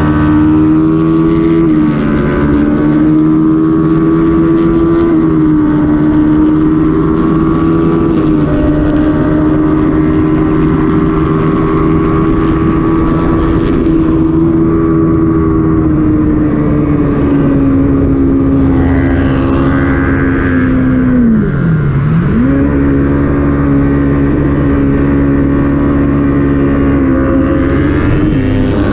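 Kawasaki Ninja 400's parallel-twin engine running hard at high revs on a race track, a steady high note with a few small drops in pitch early on. About three quarters through the revs fall steeply and climb straight back up.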